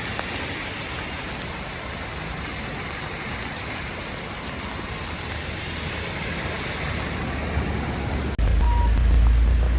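Steady heavy rain mixed with traffic running through a flooded road, an even rushing hiss. Near the end the sound cuts abruptly to a louder low rumble with a few short high beeps.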